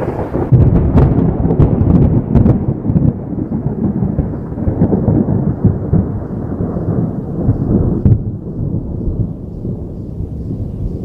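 Thunder rumbling in a long, low roll. It is loudest over the first few seconds, with a few sharp cracks, and eases somewhat about eight seconds in.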